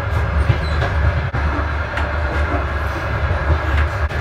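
Passenger train carriage in motion, heard from its vestibule by the door: a steady, loud low rumble of wheels on rails, with a few sharp clacks.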